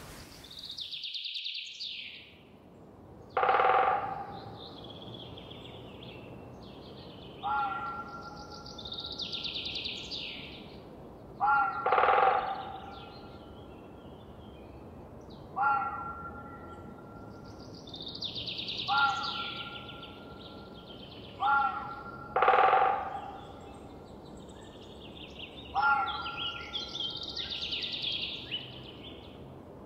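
Wild birds calling in a forest: high chirping phrases alternate with shorter calls every few seconds, over a faint steady background.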